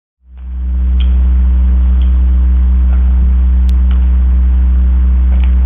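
Loud steady low electrical hum, like mains hum from a ground loop in the audio feed, cutting in abruptly after a moment of dead silence. Faint ticks come about once a second.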